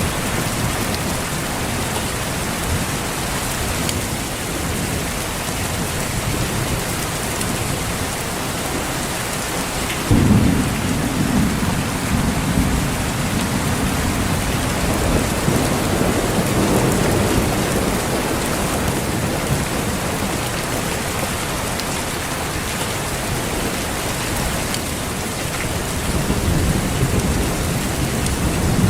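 Steady heavy rain falling, with a sudden clap of thunder about ten seconds in that rumbles on for several seconds, and further low rolls of thunder later.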